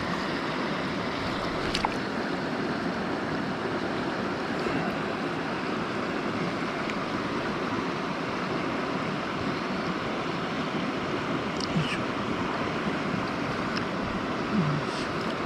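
Steady rush of a river running high after heavy rain, with a few faint clicks.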